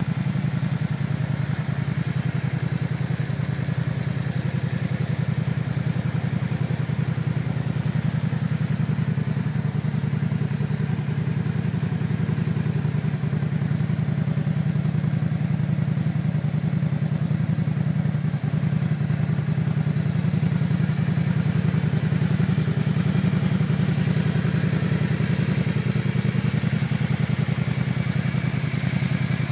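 Yamaha V Star 650 Classic's V-twin engine running steadily at a constant speed, a low, even engine note.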